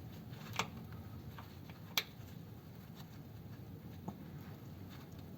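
A few sharp metallic clicks and ticks of a bolt and tools against metal as a bolt is tried into the gearbox rear mount, the loudest about two seconds in. The bolt is not catching its thread at the angle it can be reached at.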